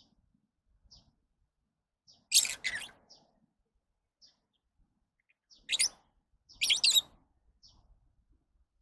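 Lovebirds calling: short faint high chirps about once a second, broken by loud harsh screeching calls, a pair about two and a half seconds in and a burst around six to seven seconds in.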